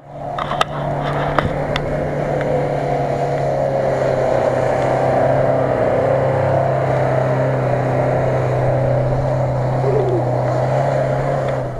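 An engine droning steadily under load, its pitch nearly constant, with a few sharp clicks in the first two seconds; it cuts off suddenly at the end.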